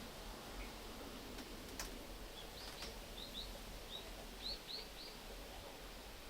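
Faint bird calls: a run of short, high chirps starting about two and a half seconds in, over a steady hiss, with a couple of sharp clicks.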